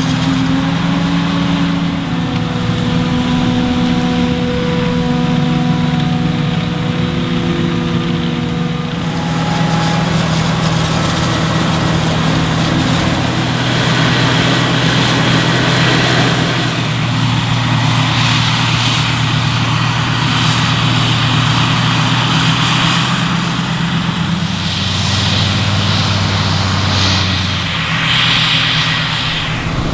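Engines of large farm machinery running steadily at work. The engine note changes about nine seconds in, and more rushing mechanical noise joins in later.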